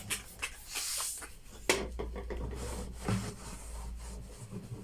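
Rubbing and handling noises with scattered small knocks as plastic washing-machine parts are scrubbed clean. There is a short hiss about a second in and one sharper knock just before two seconds.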